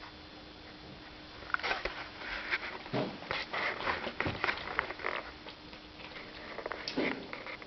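Tomcat eating wet food greedily, lapping and smacking in pig-like noises. The clicks and smacks come in irregular clusters, starting about a second and a half in and returning briefly near the end.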